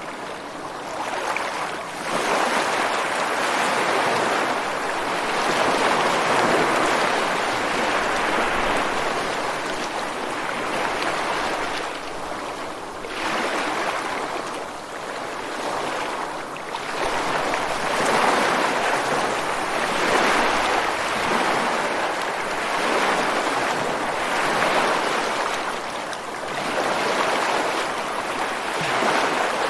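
Ocean waves breaking and washing against a rocky shore: a continuous rush of surf that swells and eases every few seconds.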